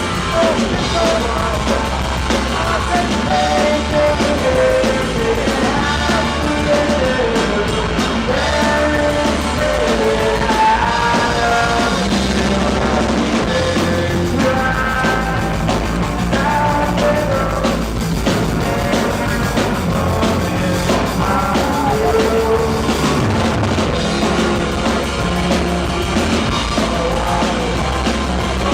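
Live rock band playing at a steady, loud level: drum kit and bass under a melody that rises and falls.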